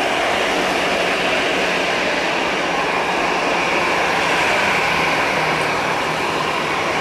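Steady roar of an Airbus A320-214 airliner's jet engines during its take-off run.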